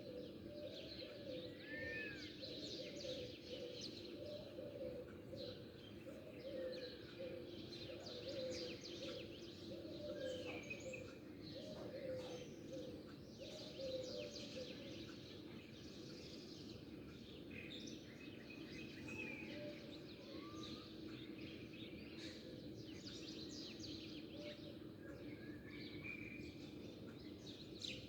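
Many small birds chirping and twittering at once, in short high calls and quick gliding notes. A lower call repeats about twice a second through the first half, over a steady background hum.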